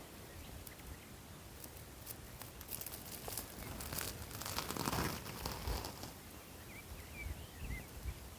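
A rustling, crackling noise, full of small clicks, that builds over a few seconds, peaks about five seconds in and fades. Faint bird chirps come near the end.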